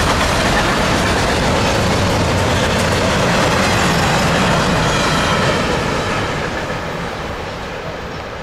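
Cars of a CSX intermodal freight train rolling past at speed, a dense, steady rumble of wheels on rails that begins to fade about five and a half seconds in as the train moves away.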